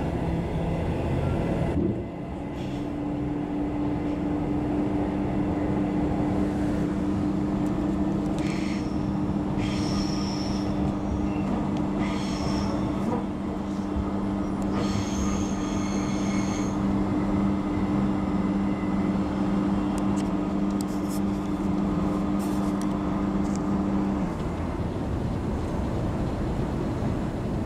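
Queensland Rail electric train running, heard from inside the passenger carriage: a steady rumble of wheels on the track, with a steady two-note hum from about two seconds in until near the end. A few short, high-pitched squeals come about halfway through.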